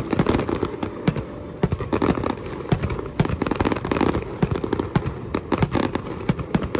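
Fireworks going off: many sharp cracks and bangs in quick, irregular succession.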